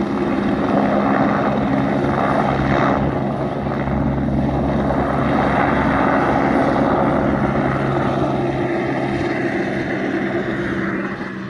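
Helicopter running, its engine and rotor making a steady tone under a loud rushing noise that swells about a second in and drops away near the end.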